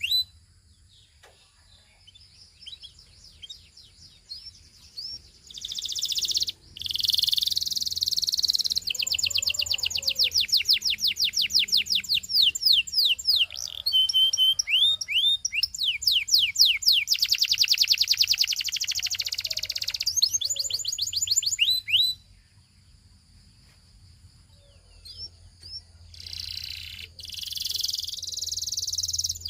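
Belgian singing canary singing long, fast trills of repeated high, sweeping notes. The song breaks off for a few seconds just after the start and again about two-thirds of the way through, then resumes.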